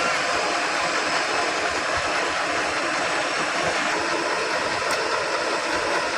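Heavy vehicle engine running steadily under a constant hiss.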